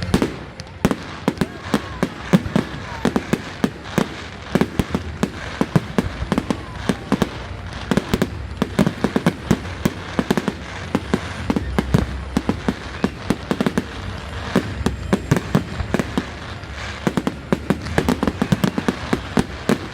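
Fireworks display going off: a dense, continuous run of sharp bangs and crackles, several a second, over a low rumble.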